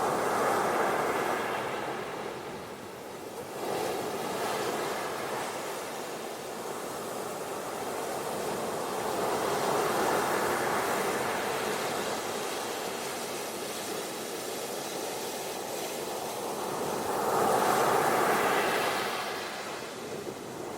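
Ocean surf breaking and washing up a beach, rising and falling in slow surges, loudest near the start and again a few seconds before the end.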